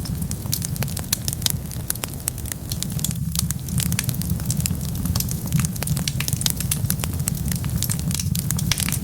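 Wood fire crackling, with many quick sharp pops over a steady low rumble of the burning.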